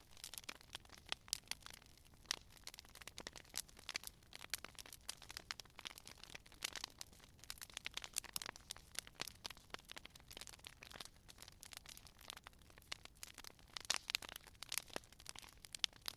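Campfire crackling: a continuous run of irregular sharp pops and snaps over a faint hiss, with a cluster of louder snaps near the end.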